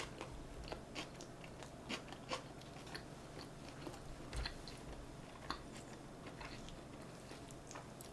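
Quiet, close-up chewing of injogogi-bap, North Korean soy 'artificial meat' wrapped around rice, with scattered soft mouth clicks.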